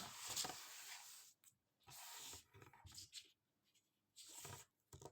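Faint rustling and handling noises with a few soft taps, in irregular bursts separated by short silences, as small objects are shuffled about by hand.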